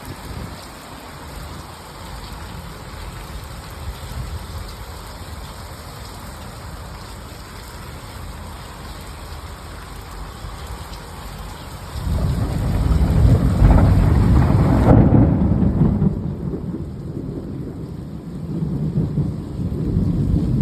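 Heavy rain falling steadily. About twelve seconds in, a deep rumble of thunder swells up suddenly, peaks a couple of seconds later and keeps rumbling to the end.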